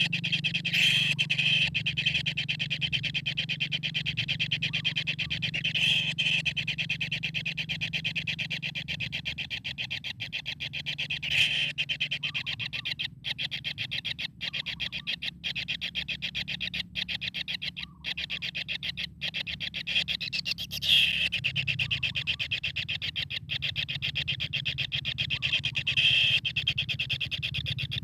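Kingfisher calling: a fast, unbroken pulsing chatter that swells louder every few seconds, over a steady low hum.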